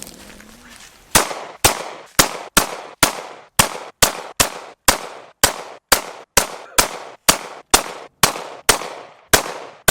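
A 5.7x28mm pistol firing a steady string of about twenty rapid single shots, roughly two a second, each crack trailing off in a short ring. The shooting starts about a second in.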